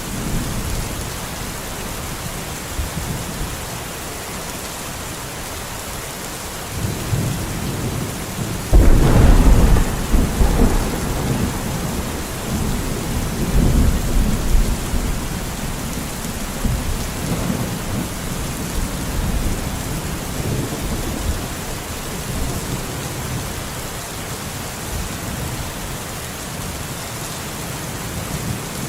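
Steady rain falling, with a thunderclap breaking suddenly about nine seconds in and rumbling on for several seconds before fading back under the rain.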